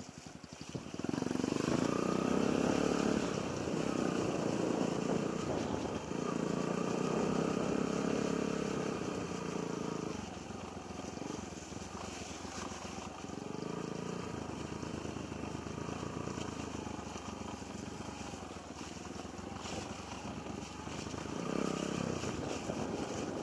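Yamaha XTZ125's single-cylinder four-stroke engine running under throttle on a trail ride. It gets louder about a second in, stays loud for several seconds, then eases off, and swells briefly again near the end.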